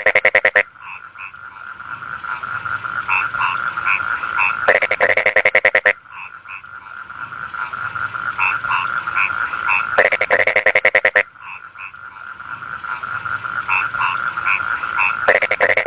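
Frogs calling in a rice field: a steady trilling chorus with short chirps over it. A loud, rapid-pulsed croaking call of about a second breaks in roughly every five seconds.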